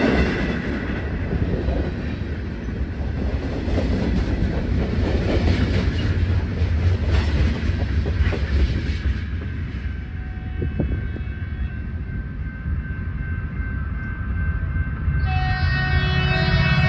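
Freight cars rolling past with a steady rumble and clicking wheels over the rail joints, thinning out as the end of the train goes by. Near the end an approaching Metrolink commuter locomotive sounds its horn, a loud steady multi-note chord.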